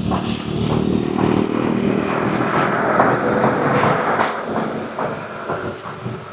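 A motor vehicle's engine passing close by, building up quickly, staying loud for a few seconds and fading near the end.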